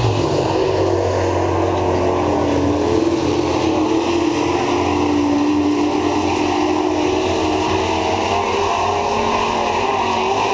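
Super truck race engines running hard around a dirt oval, several engines overlapping. Their pitch wavers up and down as the trucks work through the turns.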